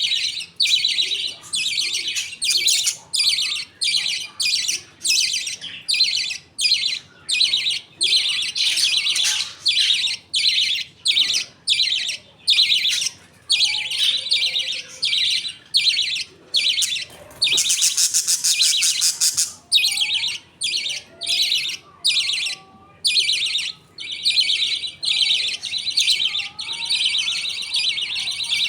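A colony of budgerigars chirping and chattering continuously, many birds calling at once in quick high-pitched bursts, with one longer unbroken stretch a little past the middle.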